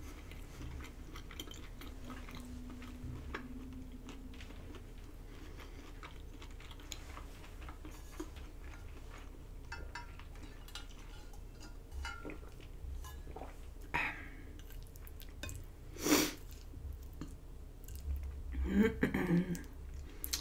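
A person chewing soft pasta close to the microphone, with small wet mouth clicks, and a few louder short sounds near the end.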